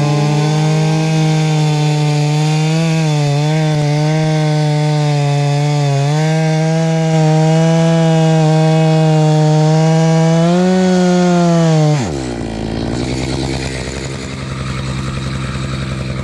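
Gas chainsaw running at full throttle while cutting through a log, its pitch holding steady with small dips under load. Near the end of the cut the revs rise briefly, then the throttle is released about twelve seconds in and the saw drops to idle.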